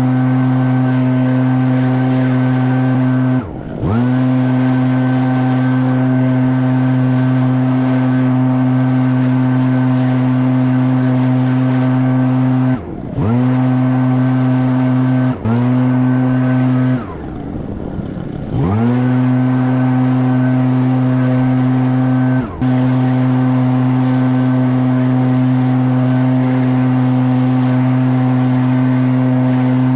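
Echo PB-9010T backpack leaf blower's two-stroke engine running at full throttle, with the throttle let off briefly five times, the pitch dropping and climbing straight back each time, the longest dip about two-thirds of the way through.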